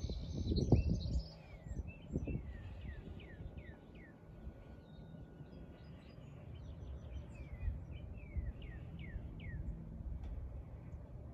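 Birds chirping: runs of short, quick downward-sliding calls, over a low rumble that is loudest in the first second or so.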